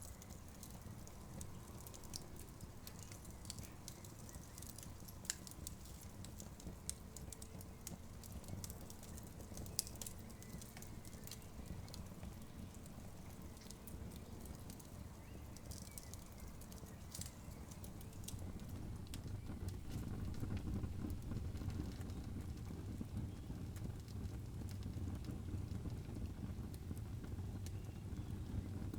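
Wood campfire crackling, with frequent irregular sharp pops and snaps. Underneath is a low rumble that grows louder about two-thirds of the way through.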